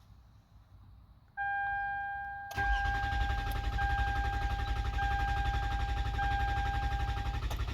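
2008 Toyota Sienna's 3.5-litre V6 cranking on the starter for about five seconds without catching, then stopping: a crank-no-start, which the owner traces to the immobilizer not recognising the key. A steady electronic chime starts about a second before the cranking and carries on through it.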